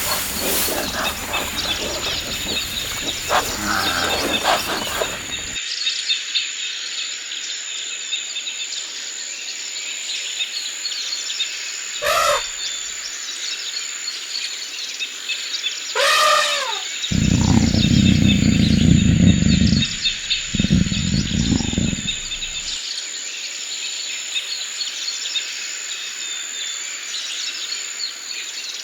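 Forest ambience: many small birds chirping over a steady high insect drone. Two louder, short rising-and-falling calls come at about 12 and 16 seconds in, followed by a low rumble lasting a few seconds.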